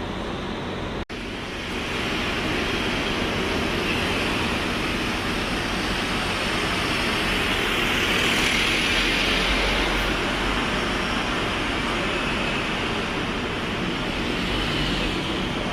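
Steady traffic and vehicle noise that cuts out for an instant about a second in, then carries on a little louder.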